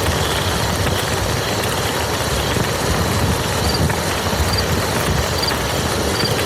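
Steady rain falling on a muddy field, an even hiss with a heavy low rumble underneath. In the second half, faint short high chirps sound about once a second.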